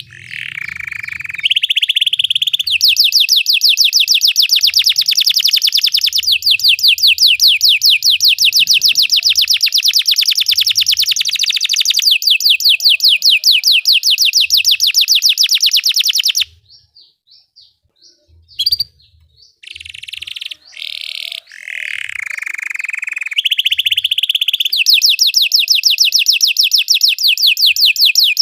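Belgian canary singing long, fast trills and rolls. The song stops for about three seconds partway through, apart from one brief note, then starts again.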